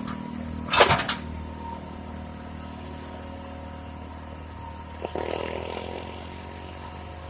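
Heavy machine's engine running low and steady, with a short, sharp, loud noise about a second in and a weaker burst around five seconds in.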